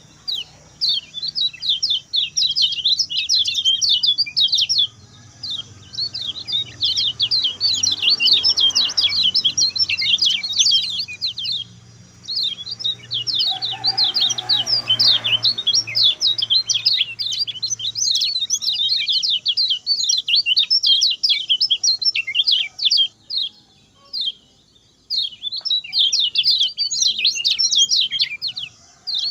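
Kecial kuning, a white-eye songbird, singing its fast, short-phrased song: rapid high chirps in runs of several seconds, broken by short pauses.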